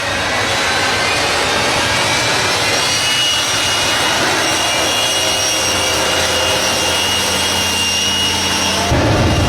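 Jet engines of a jet-powered truck running with a loud, steady rush and high whine. About nine seconds in, a louder low rumble comes in suddenly.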